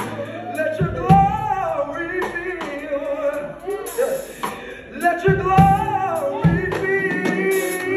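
A man sings a gospel melody with long, gliding held notes, over live band accompaniment of sustained chords and drum hits.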